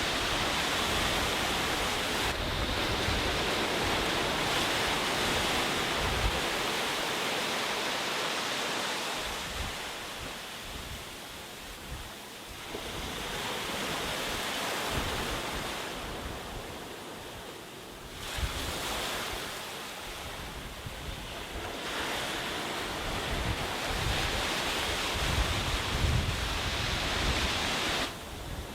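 Sea waves washing onto a beach, the surf swelling and easing every several seconds, with wind buffeting the microphone in low rumbles.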